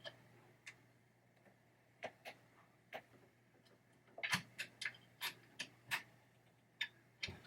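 Light, irregular clicks and taps of a nut driver and small fastener against the metal parts of a pinball trap door mechanism as the fastener is fiddled into its hole, with a quicker run of clicks about four seconds in.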